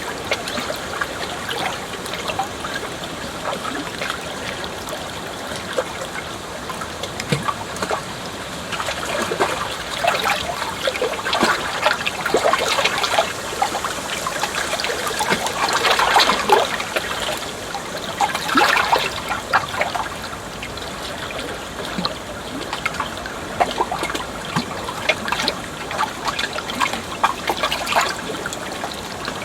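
Shallow water trickling and splashing over stones, a continuous babble of small gurgles that grows a little busier midway through.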